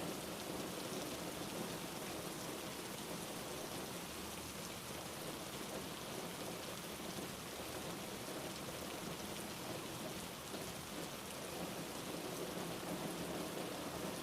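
Steady rain falling, a continuous even patter of drops.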